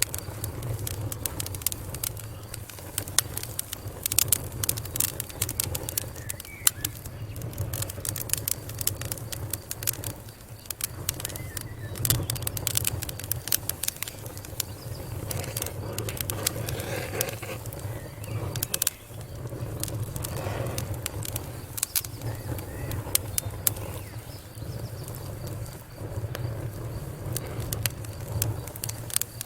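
Wood fire crackling in a fireplace: frequent sharp pops and snaps, irregularly spaced, over a steady low rumble of the flames.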